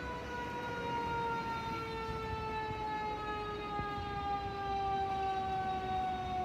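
Fire truck siren holding one long wail that slowly and steadily falls in pitch, like a mechanical siren winding down, over a low vehicle rumble.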